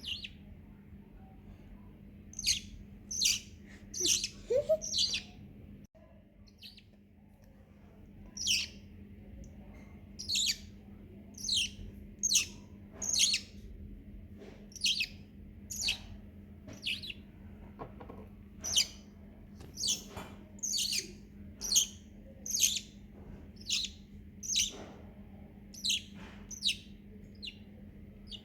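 Baby parrot chick's begging calls: short high-pitched chirps repeated about once or twice a second, the sign of a hungry chick wanting to be fed. There is a pause of a few seconds after the first few calls, and a steady low hum underneath.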